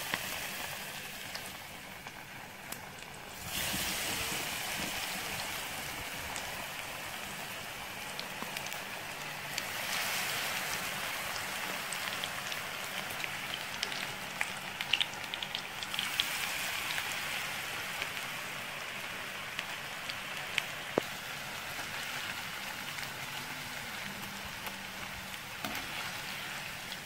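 Flour-coated potato slices deep-frying in hot oil: a steady sizzle with scattered sharp pops, growing louder about three and a half seconds in.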